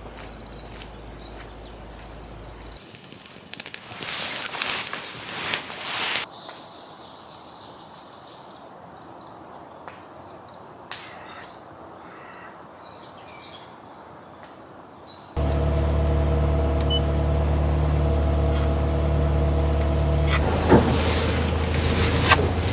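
Short high bird chirps over a quiet outdoor background, then, about two-thirds of the way in, a steady engine-like drone with a low hum that cuts in suddenly.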